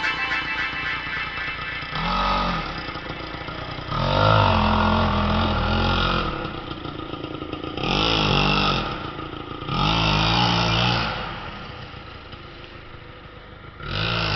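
Nitro RC car's small two-stroke glow-fuel engine revving up and back down in about five bursts, running quieter between them.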